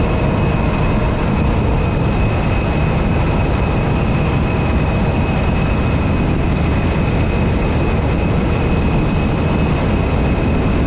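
A motorcycle running at steady road speed with heavy wind rush on the microphone, plus a thin steady whine over the top.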